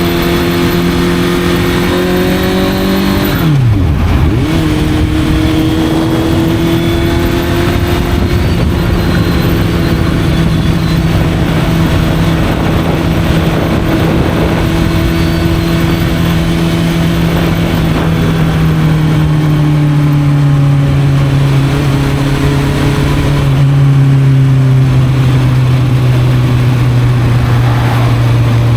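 Honda CB650F inline-four engine through an Arrow aftermarket exhaust, pulling steadily at cruising revs while riding. About four seconds in the revs dip sharply and pick up again, as in a gear change. In the second half the engine note slowly drops lower.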